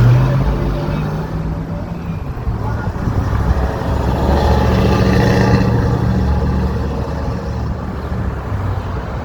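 Car driving past on a city street, its engine and tyres swelling a few seconds in and fading again.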